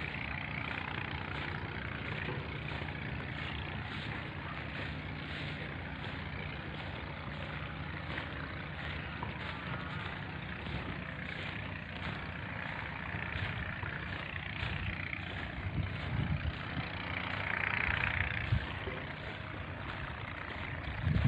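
Steady rumbling outdoor background noise with a low hum and hiss, a little louder for a moment about seventeen seconds in.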